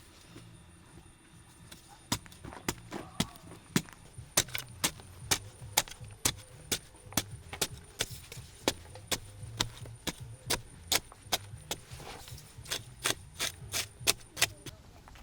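Repeated sharp knocks of a tool striking wood, about two a second, starting about two seconds in and stopping shortly before the end.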